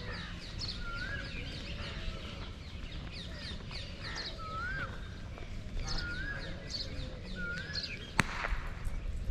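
Birds chirping outdoors: many quick high chirps, with one bird repeating a short wavy whistled note several times. A single sharp click about eight seconds in.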